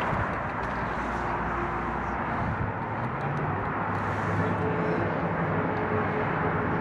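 Steady outdoor vehicle background noise: an even hiss with a faint low hum under it, at an even level throughout.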